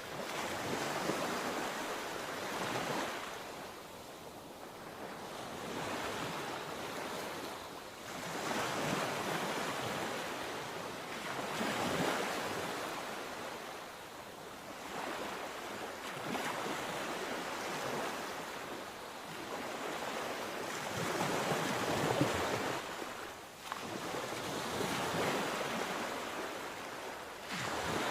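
Sea waves washing in and breaking, the rushing noise swelling and fading every few seconds.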